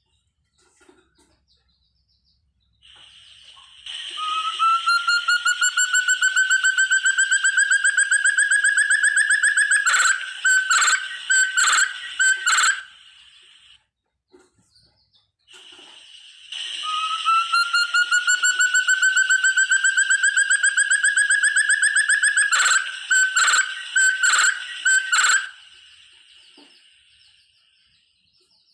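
Forest partridge (puyuh hutan, called burung terung) calling. It gives a fast run of pulsed whistles that climbs slowly in pitch and grows louder over several seconds, then breaks into a handful of separate loud notes. The whole phrase comes twice.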